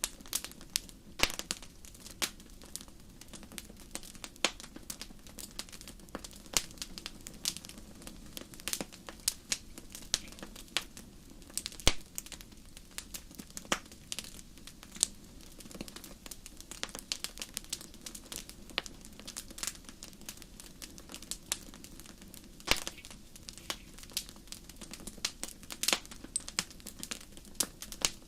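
Wood fire burning in a fireplace: many sharp, irregular crackles and pops over a low, steady rumble of the flames, with a louder pop about twelve seconds in.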